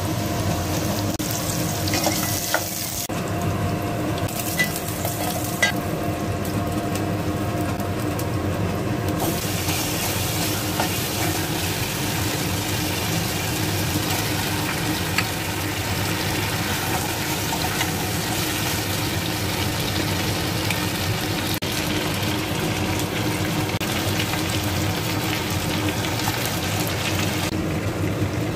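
Potatoes frying in hot oil in a pot, with a steady sizzle, stirring and a few sharp clicks of a utensil. The sizzle grows louder about a third of the way in, as carrots and chicken go into the pot. A steady low hum runs underneath.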